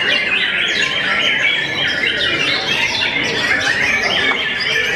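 White-rumped shama (murai batu) singing continuously: a dense, unbroken run of quick chirps and whistles.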